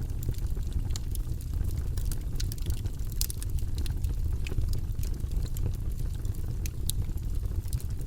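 Campfire crackling: many irregular sharp pops and snaps over a steady low rumble.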